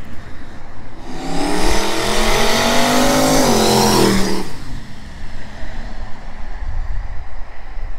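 Turbocharged LS V8 in a Subaru WRX accelerating hard past. The engine note climbs steadily for about two and a half seconds, then drops and fades as the car moves away.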